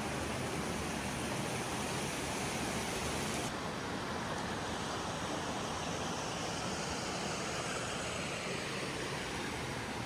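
Steady rush of spring water flowing out of a stone basin, a continuous even wash of sound; its hiss turns duller suddenly about three and a half seconds in.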